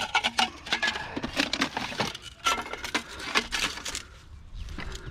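Scrap metal clattering and clinking as it is handled: a rapid, irregular run of sharp knocks and rattles, some with a brief metallic ring, quieting a little about four seconds in.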